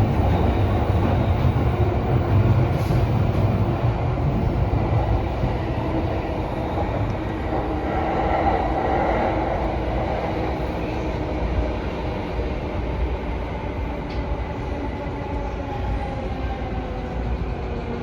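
Electric commuter train running along the line, heard from inside the front car: a steady rumble of wheels on rails with a faint whine, easing slightly in loudness toward the end.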